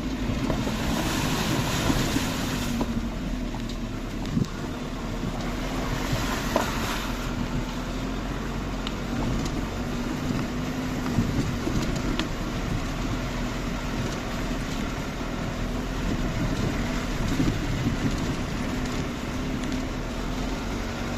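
Vehicle driving: a steady engine and road rumble with a constant low engine hum. Two short rushes of hiss come through, one about a second in and one around six seconds in.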